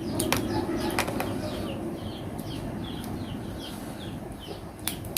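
Small birds chirping over and over in short falling notes, a few chirps a second. A handful of sharp clicks and cracks, a crab shell being broken and picked at while eating, stand out near the start, about a second in and near the end.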